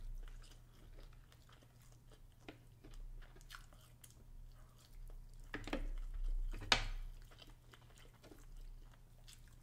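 Close-miked mouth sounds of people chewing pulled turkey leg meat: soft wet clicks and smacks, with two louder sharp smacks a little past halfway, over a faint steady low hum.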